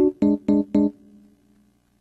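Background music on an electric piano or keyboard: four short, sharply struck notes in the first second, then the last one rings away into near silence.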